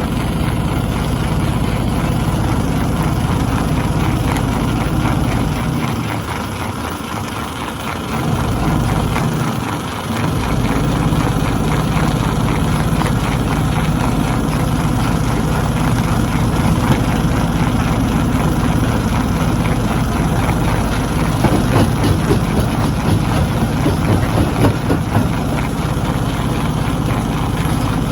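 Stone crusher machine running with a steady, heavy engine-like drone; the low hum drops out briefly around six and ten seconds in. About two-thirds of the way through, a run of sharp knocks and cracks of rock being crushed comes through over the drone.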